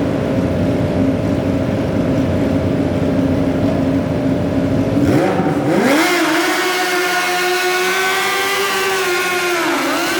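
Modified pulling garden tractor engine running steadily, then revving up quickly about five seconds in and holding at high revs, with a brief sag in pitch near the end.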